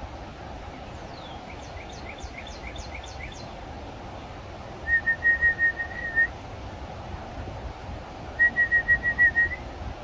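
Bird song: a faint run of quick, high, down-slurred whistled notes, then two loud bursts of rapid, evenly pitched short notes, the first about five seconds in and the second near the end.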